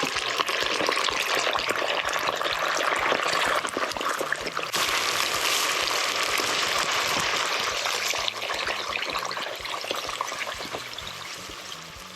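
Roe deer meat sizzling in hot oil in a pan, a dense steady hiss. It brightens about five seconds in and fades gradually over the last few seconds.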